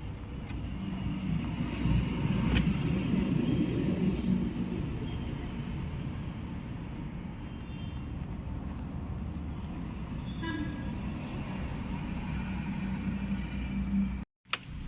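Road traffic: a vehicle engine rumbling by, with a short horn toot about ten seconds in.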